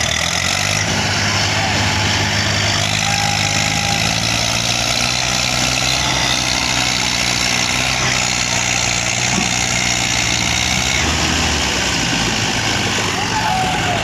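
Tractor diesel engines running steadily together.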